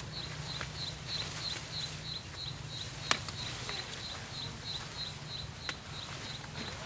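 A small creature's short, high chirp repeated steadily about three times a second, with a sharp click a little past the middle and a fainter one near the end.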